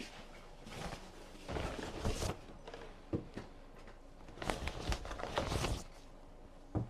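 Rustling and handling noises with a few light knocks, in two longer spells of rustling and several single clicks.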